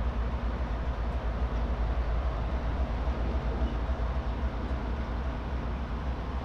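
Diesel-hauled freight train running on the mainline: a steady low rumble with a held hum of engine tones above it.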